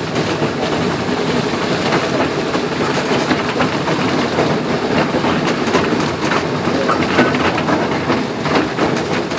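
Miniature railway train running steadily along its track, heard from a riding carriage: a continuous rumble and rattle of the wheels with frequent sharp clicks.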